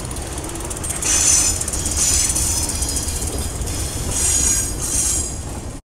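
Freight train's steel wheels squealing on curved track in several high-pitched bursts, loudest about a second in, over a low steady rolling rumble.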